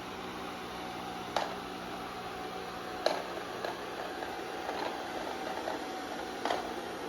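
Amarey A90+ robot vacuum running with a steady motor hum, broken by three short sharp clicks.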